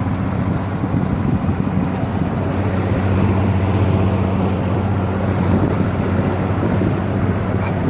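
A motorboat engine running at a steady pitch, with wind buffeting the microphone.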